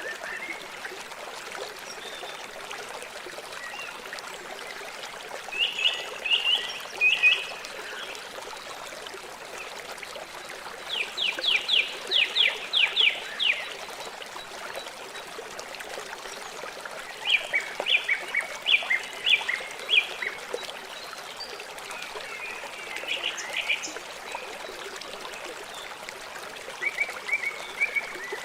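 River water flowing steadily, with a bird breaking in about every six seconds with a quick run of sharp, rapidly repeated calls that stand out well above the water.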